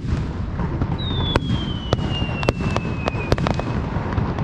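Aerial fireworks bursting: a string of sharp cracks over a steady low rumble. Partway through, a thin whistle falls slowly in pitch for about two seconds.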